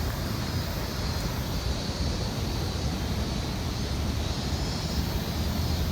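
Steady outdoor background noise: a low rumble with an even hiss above it, without distinct events.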